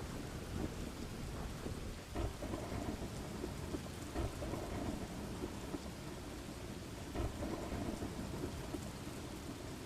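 Steady rain falling, with low thunder rumbling underneath. The rumble swells briefly about two, four and seven seconds in.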